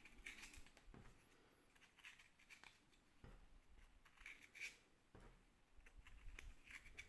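Faint small clicks and rubbing of darts being pushed one by one into the revolver's 3D-printed plastic cylinder.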